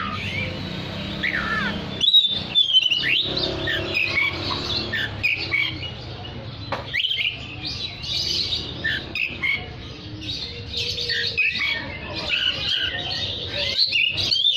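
Oriental magpie-robin singing a continuous, varied song of quick whistles and chattering notes, a bird in full song.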